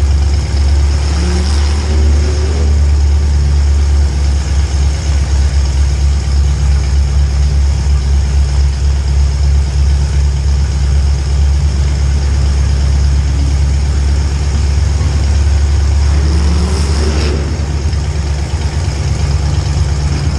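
A vehicle engine running at a loud, steady idle with a deep drone. It is revved up briefly about a second in and again near the end.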